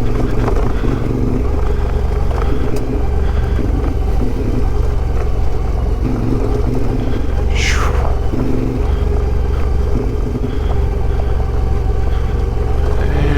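CFMoto 450MT's parallel-twin engine running in a low gear on a rocky climb, the throttle opening and closing. There are a few short knocks, and one brief high squeal that falls in pitch about two-thirds of the way through.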